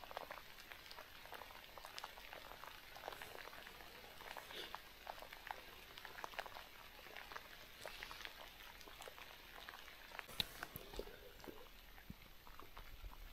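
Light rain falling: faint, irregular ticks of raindrops.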